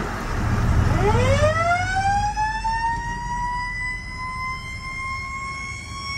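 A siren winding up about a second in, its pitch rising steeply and then levelling off into a steady high wail, after a noisy din at the start.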